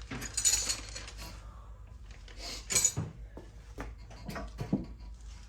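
Metal clinks and taps of a spanner wrench working the threaded spring collar of a coilover, in irregular short strikes, the sharpest about half a second in, near three seconds and near the end.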